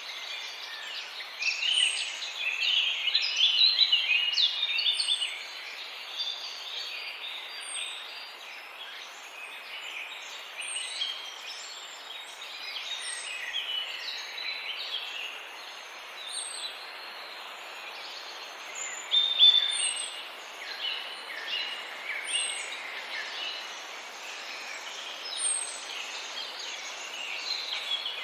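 Many birds calling at once, a dense tangle of short overlapping calls, loudest a few seconds in and again about two-thirds of the way through. Above them a short, high, falling chirp repeats about every three seconds.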